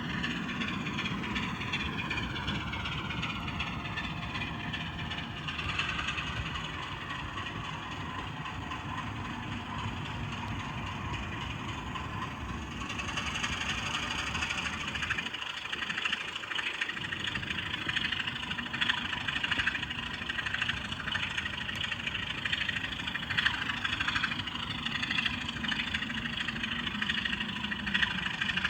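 Steady locomotive engine running sound from a OO gauge model loco's DCC sound decoder, with pitch falling over the first few seconds and a brighter, rattly sound from about halfway.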